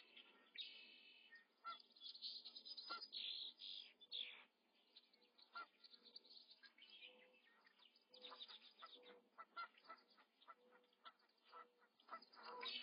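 Faint, high-pitched bird chirps and peeps, many short calls coming quickly one after another.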